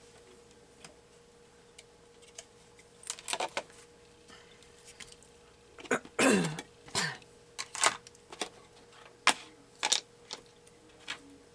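Irregular clicks, taps and clacks of craft supplies and tools being handled on a worktable, with a short falling squeak about six seconds in, over a faint steady hum.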